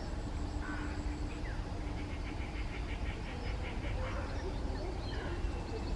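Bird calls in a wetland: a rapid string of short, high notes about two seconds in, and single brief calls around one and four seconds, over a steady low rumble.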